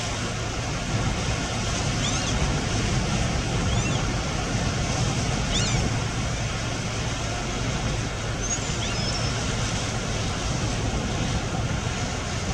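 Wind buffeting the microphone over waves on a lake, a steady low rumble with a wash of water noise. A few faint, short high chirps sound through it.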